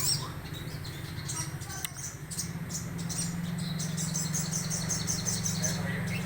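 Small sogon songbird singing a rapid series of short, very high, thin chirps. A steady low hum runs underneath.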